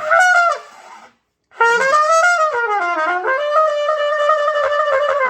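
Trumpet playing practice notes: a short note at the start, a pause of about half a second, then a note that wavers in pitch before settling into a long held tone.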